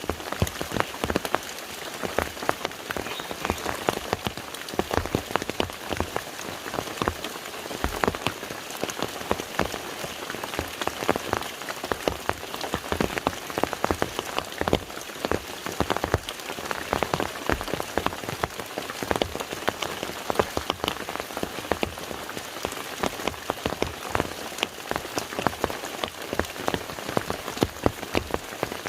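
Rain falling on a lake's surface: a steady hiss with a dense, irregular patter of individual drops.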